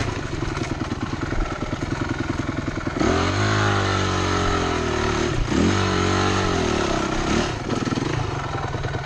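Dirt bike engine running, then opened up twice: the pitch climbs and falls about three seconds in and again near six seconds.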